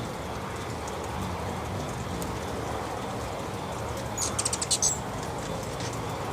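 Hummingbird giving a quick burst of about seven high, rapid chittering chips about four seconds in, over a steady background rumble and hiss.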